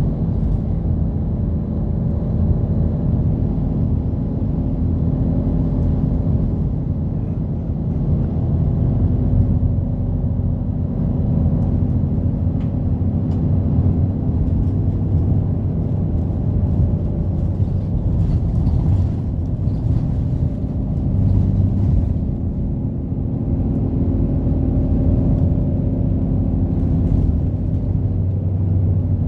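Inside a moving route bus: the engine running under a steady low road and drivetrain rumble, its note drifting lower and higher as the bus changes speed.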